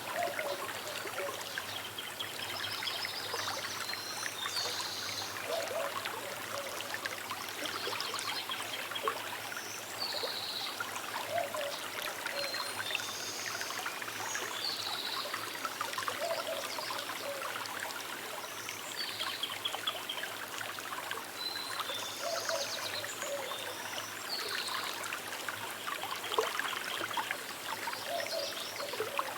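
Small river flowing with a steady trickling, with birds calling and singing at intervals over it.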